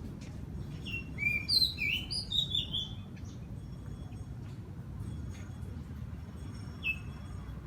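Small birds chirping: a quick run of short, high, falling notes lasting about two seconds, then one more note near the end. A steady low rumble runs underneath.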